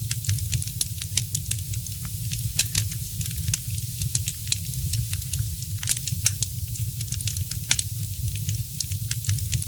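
Wood fire crackling, with frequent sharp pops and snaps over a low steady rumble.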